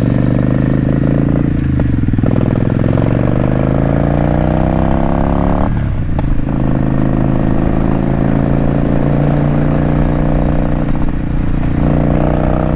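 Motorcycle engine pulling hard, rising in pitch through the gears with breaks at the gear changes about two and six seconds in. It then holds a steady pitch, with another shift near the end.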